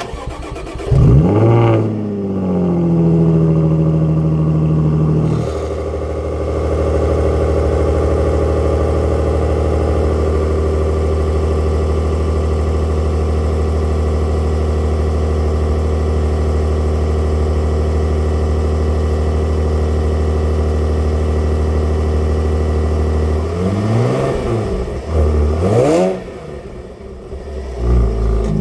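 Cold start of a 2016 Jaguar F-Type S's supercharged 3.0-litre V6. It cranks briefly and catches with a sharp flare in revs, then settles into a steady fast cold idle. Near the end the throttle is blipped two or three times, with quick rising and falling revs.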